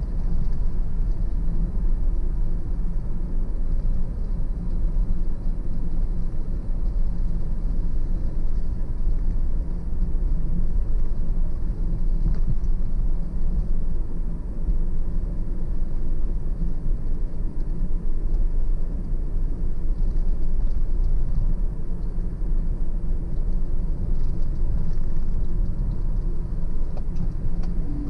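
Car driving steadily along a road: a continuous low rumble of engine and tyre noise.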